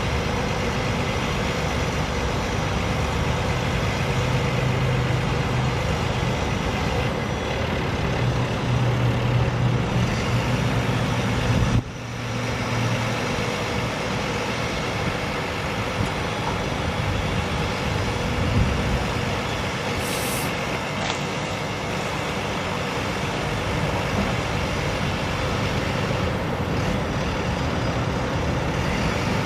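A 2005 International 7300 truck's DT466 straight-six diesel engine running steadily, a little stronger for the first dozen seconds, with a brief high hiss about twenty seconds in.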